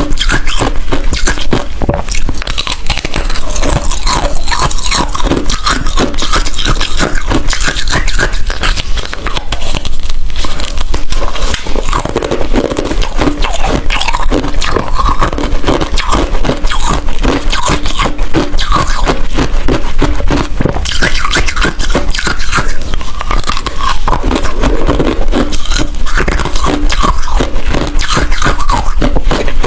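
A person biting and chewing ice, close to the microphone: loud, dense crunching that runs on with only a brief lull about ten seconds in.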